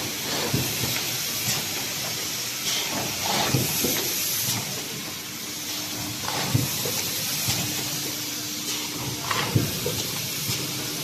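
Automatic PVC sheet thermoforming machine running: a steady air hiss with repeated knocks and clunks as its forming, punching and cutting stations cycle, and a low hum that switches on and off.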